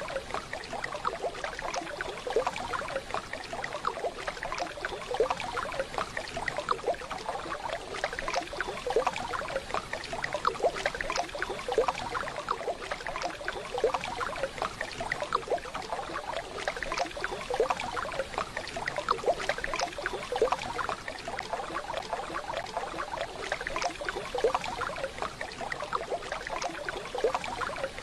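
Waterfall: water cascading in a steady splashing, trickling rush.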